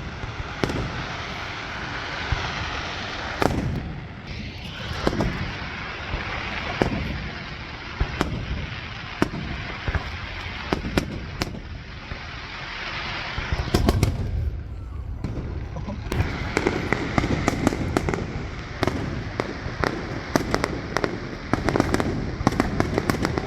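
Aerial fireworks display: a steady run of booming shell bursts with crackling between them, one especially heavy low boom a little past the middle, and the bangs coming thicker and faster over the last several seconds.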